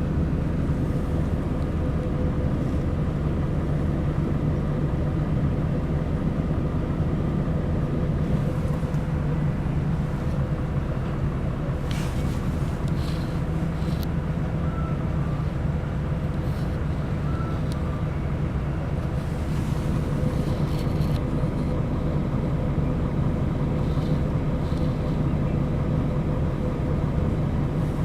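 Mercedes-Benz O500 RSD BlueTec5 coach's diesel engine running at a steady, unchanging pitch, a deep even hum heard from inside the double-decker bus.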